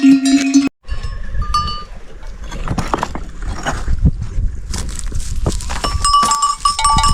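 Livestock bells clinking and ringing irregularly, with a clear ringing note standing out near the end. In the first moment a held musical tone cuts off abruptly.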